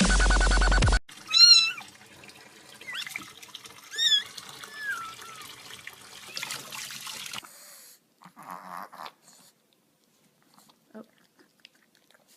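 Dubstep music cuts off about a second in. Then a domestic cat meows about four times, short wavering calls, the first the loudest.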